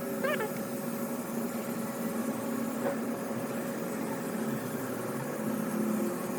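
A machine running steadily with an even, unchanging hum.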